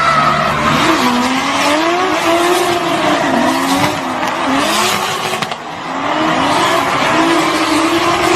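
Toyota Supra Mk4's 2JZ inline-six engine at high revs, its pitch swinging up and down quickly as the throttle is worked through a drift, over the hiss of skidding tyres. The level dips briefly about five and a half seconds in, then picks up again.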